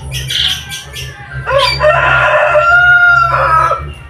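A rooster crowing: one long, loud call of about two seconds starting around halfway in. It comes after shorter bird squawks and chirps near the start, over a steady low hum.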